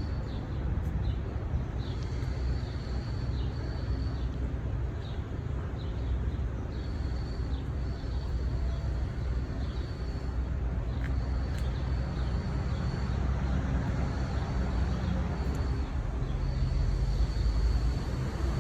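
Outdoor city ambience: a steady low rumble of traffic that grows louder near the end, with a bird's short high chirps repeating through it.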